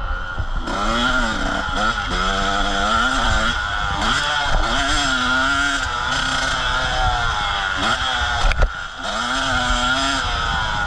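Motocross bike engine revving up and down, its pitch rising and falling again and again as the throttle is worked. A sharp knock sounds late on.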